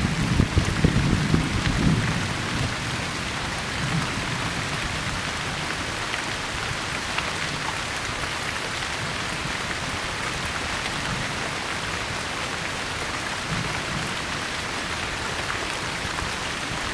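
Steady rain falling on forest leaves, with a low rumble in the first couple of seconds.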